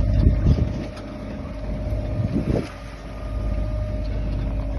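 A sailing yacht's inboard engine running steadily under power, with wind buffeting the microphone twice, about half a second and two and a half seconds in.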